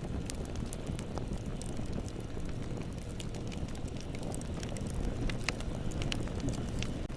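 Bonfire burning: a steady low rush of flames with scattered sharp crackles and pops, a few louder snaps about five to six seconds in.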